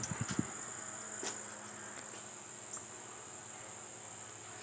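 Hampton Bay Gazebo ceiling fan running quietly on low with its light kit on: a faint steady hum under a steady high-pitched whine. A few soft knocks right at the start and a small click about a second in.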